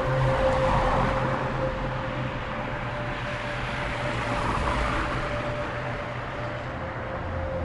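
Steady road and tyre noise of a moving car, with a held musical drone note running under it.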